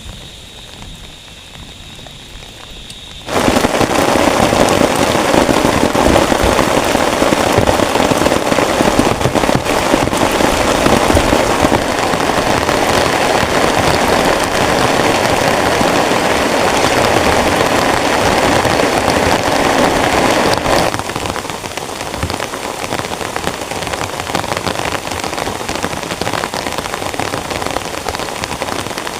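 Heavy rain drumming on a tent, a dense, steady patter. It starts softer, turns abruptly much louder about three seconds in, and eases somewhat past the two-thirds mark.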